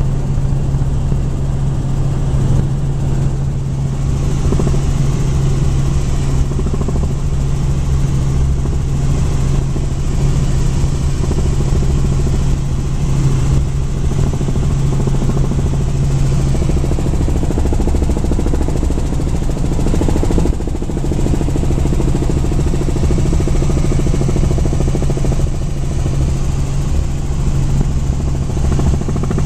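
Helicopter running at a steady, loud drone of engine and rotor, with a constant low hum.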